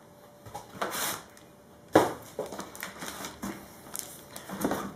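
Hands handling a laptop's cardboard box and packing: light rustling and scattered small knocks, with one sharp knock about two seconds in.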